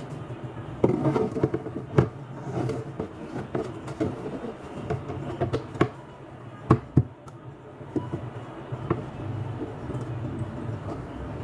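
Handling noise with a scatter of sharp knocks and taps, as hard objects are moved and set down; the loudest knocks come about two seconds in and as a quick pair just past the middle.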